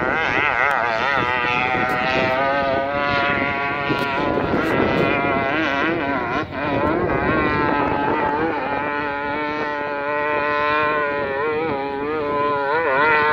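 Off-road motorcycle engine revving hard under load on a steep hill climb, its pitch wavering up and down with the throttle and dropping off briefly about halfway through.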